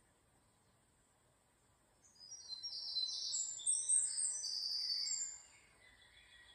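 A bird singing a quick run of high chirping notes for about three seconds, starting about two seconds in.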